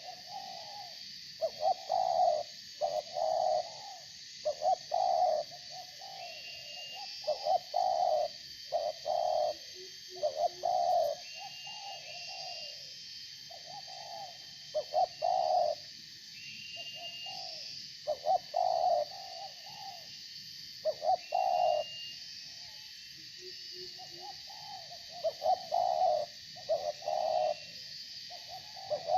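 Spotted dove (tekukur) cooing in repeated phrases of several notes, with short pauses between them. Short, higher bird chirps come in at intervals over a steady high insect drone.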